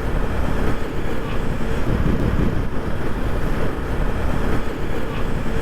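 Wind rushing over the microphone of a moving motorcycle, with road and engine noise underneath and a faint steady hum.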